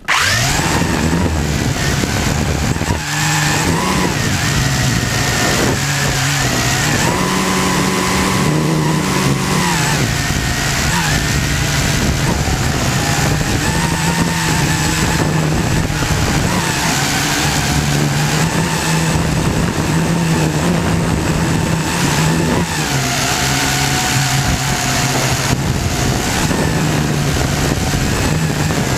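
Syma X8C quadcopter's motors and propellers buzzing steadily, the pitch stepping up and down as the throttle changes; it starts suddenly.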